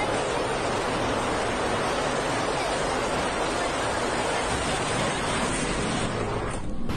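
Hurricane storm noise: a steady, even rushing roar of wind and water that breaks off briefly near the end.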